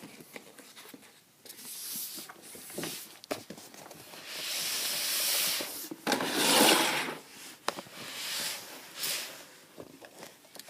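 Rubbing and scraping handling noise as objects are moved by hand close to the microphone, in several swells with a few light knocks. The loudest swell comes about six to seven seconds in.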